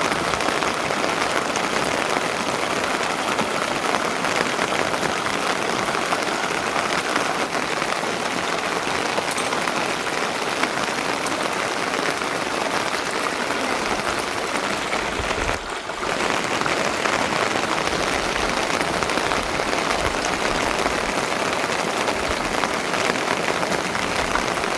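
Steady heavy rain falling, an even hiss that dips briefly about two-thirds of the way through, with low rumbling in the later part.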